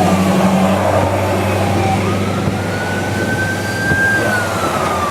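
Emergency vehicle siren wailing, its pitch falling, rising slowly again about two seconds in and falling from about four seconds in, over the steady low hum of a vehicle engine.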